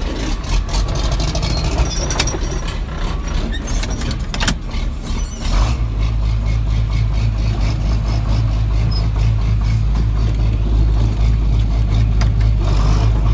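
John Deere 4440's six-cylinder diesel engine being started: about five seconds of cranking and clatter, then it settles into a steady, deep idle.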